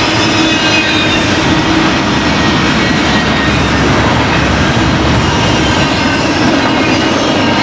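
BNSF intermodal freight train rolling past close by. The cars make a loud, steady rumble of wheels on rail, with thin squealing tones from the wheels running through it.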